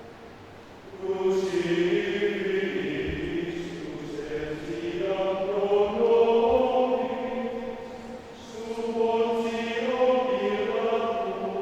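Men's choir singing without words being spoken, sustained chords in several voices that swell and fade, with a brief dip about 8 seconds in.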